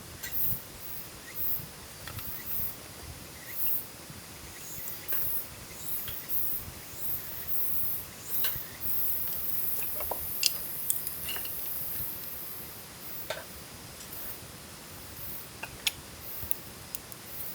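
Insects calling in short, very high-pitched bursts, about one or two a second, with a few sharp clicks near the middle and end.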